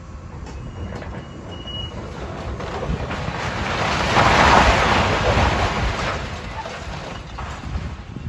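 A large vehicle passing by: its noise builds gradually, peaks about halfway through, then fades away.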